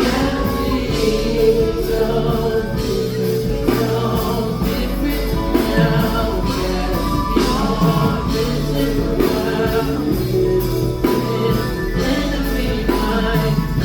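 Live band playing a slow soul song with a voice singing over it, drums keeping a steady beat.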